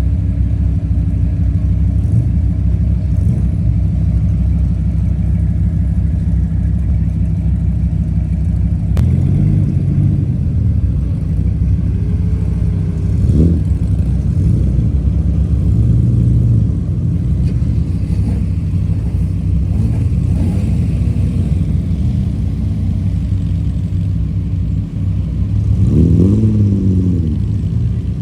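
Classic car engines running at low speed as the cars drive out in a slow line. The deep idle is steady at first, then from about a third of the way in engines are blipped, rising and falling in pitch several times, with the loudest rev near the end.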